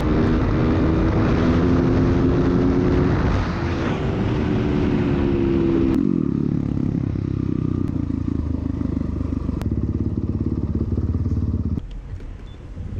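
Dirt bike engine running under way, its pitch held for the first few seconds, then falling about six seconds in and running lower and steadier as the bike slows, dropping away shortly before the end.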